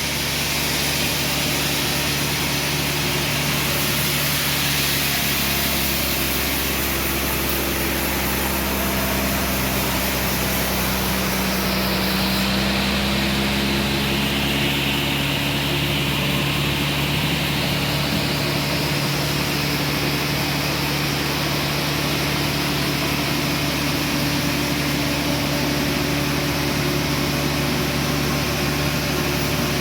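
Band sawmill's engine running steadily and unbroken, its pitch drifting slightly up and down, with a steady hiss over it.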